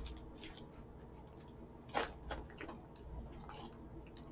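Someone chewing white cheddar cheese puffs: scattered soft crunches and small clicks, the sharpest about two seconds in.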